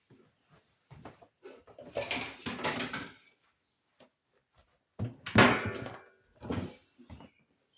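Hard kitchen items clattering and knocking as they are handled, in two main bursts about two seconds in and again about five seconds in, with a shorter clatter after the second.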